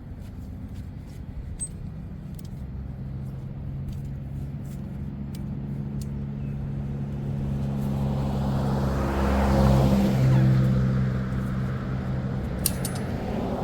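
A motor vehicle's engine hum grows louder to a peak about ten seconds in, then eases off, like a vehicle passing close by. A few light metallic clicks come with it, and one sharp tick near the end.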